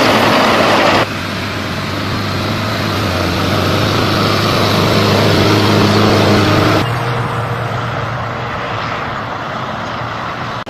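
Heavy tractor engine running steadily under load, with abrupt changes in level and tone about a second in and again near seven seconds.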